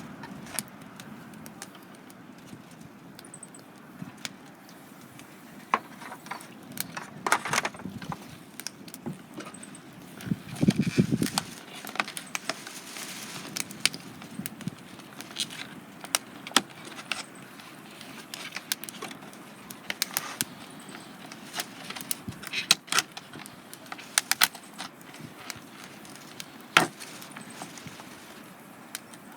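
Wood fire crackling, with irregular sharp pops and clicks scattered throughout and a brief low rustling thud about eleven seconds in.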